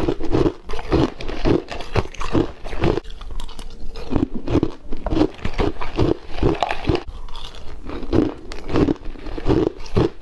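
Close-up chewing of crunchy hard white frost mixed with passion fruit: loud crunching bites, about two chews a second.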